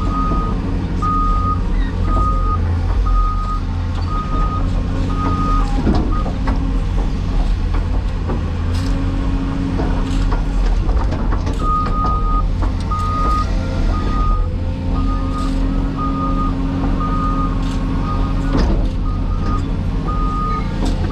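Cat 336E excavator's diesel engine running steadily under load, with a warning alarm beeping about once a second for the first few seconds and again through the second half. A few sharp knocks sound over the engine.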